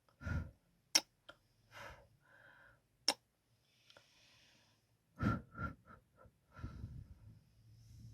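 Close-miked ASMR kissing: sharp lip smacks about a second in and again near three seconds, with soft breaths and wetter kisses between them and a cluster of kisses around five to six seconds in.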